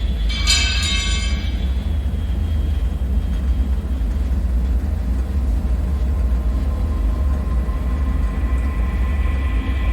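Dark ambient soundscape: a deep, steady rumble, with a brief metallic ringing screech about half a second in that dies away within a second. A high, thin tonal drone fades in near the end.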